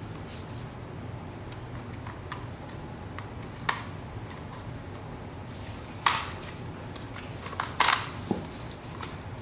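Electric kettle parts being handled: a few sharp clicks and knocks, the loudest a little after the middle and near the end, over a low steady hum.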